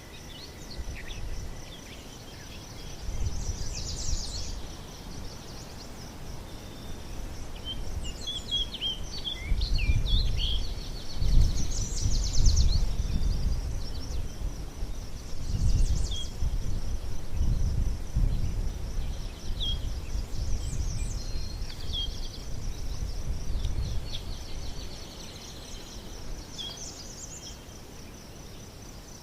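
Outdoor nature ambience: songbirds chirping in short scattered calls over a steady high insect trill, with a low rumble that swells and fades several times and is the loudest thing, easing off near the end.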